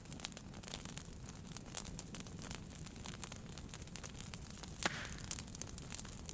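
Wood fire burning in a fireplace: a steady low rumble of the flames with frequent sharp crackles and pops, the loudest pop a little before five seconds in, followed by a brief hiss.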